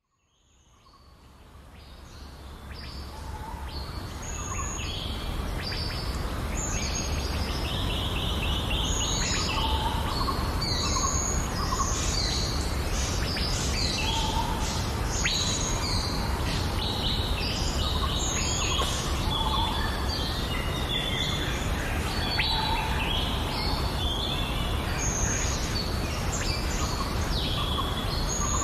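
Several birds chirping and singing in a busy chorus of short calls and trills, over a steady low rumble; the sound fades in over the first few seconds.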